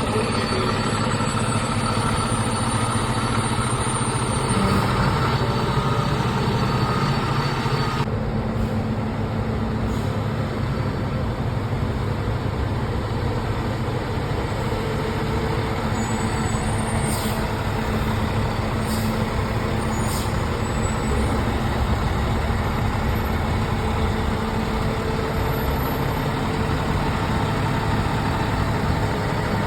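Fire truck's diesel engine running steadily, with a brief change in the higher sound about eight seconds in and a few short, high sounds later on.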